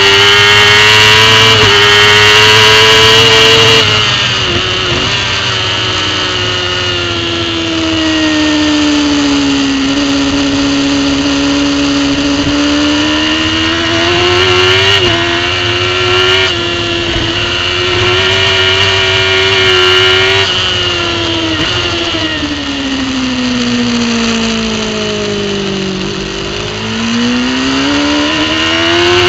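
Racing superbike engine at speed, heard from the bike's on-board camera, its revs rising and falling with throttle and gear changes. About four seconds in the revs drop sharply. Near the end they sink low, then climb steeply as the bike accelerates hard.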